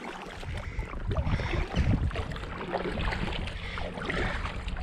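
Inflatable kayak being paddled away: irregular splashes and swishes of the paddle blade in the water, over a low uneven rumble of breeze on the microphone.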